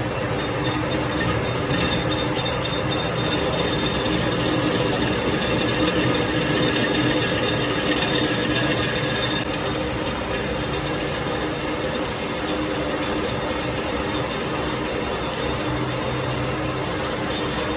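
Workshop machinery running steadily, a continuous mechanical noise with a few steady tones and no letup.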